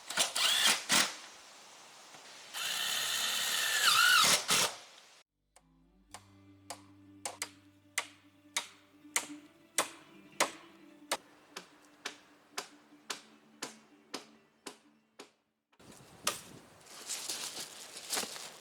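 Power drill driving roofing screws in short runs with a whine. Between them is a stretch of music: steady low notes under a ticking beat of about two ticks a second.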